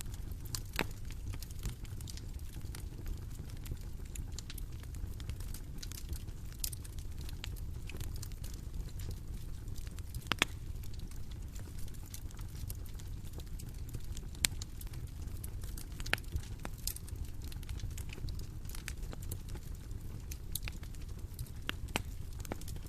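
Bonfire crackling: irregular sharp pops and snaps of burning wood over a steady low rumble.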